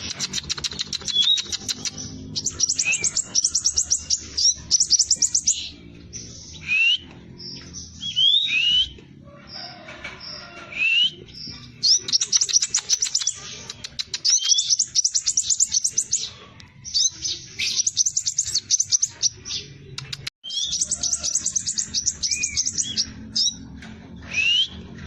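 Scarlet minivet singing: bursts of very fast repeated high notes, each a second or two long, broken by single rising whistled notes. The song briefly cuts out about twenty seconds in.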